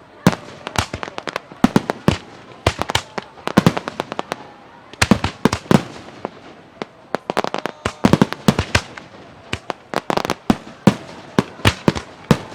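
Aerial fireworks bursting in rapid, irregular volleys of sharp bangs, several a second, some clustered close together.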